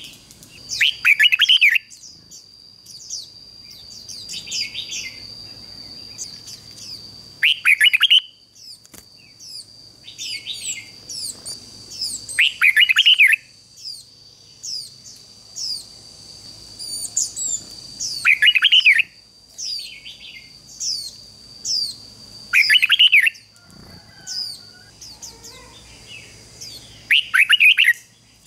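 Red-whiskered bulbul singing: six short, loud, warbled phrases, one about every four to five seconds, with quieter high chirps between them. A thin, steady high tone runs underneath.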